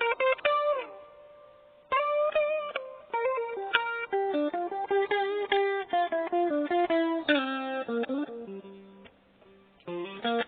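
Cheap maple-body guitar played solo: picked single-note melody lines with a slide in pitch near the start. The notes ring out and fade about a second in, a long run of notes follows, and after a short lull the playing starts again near the end.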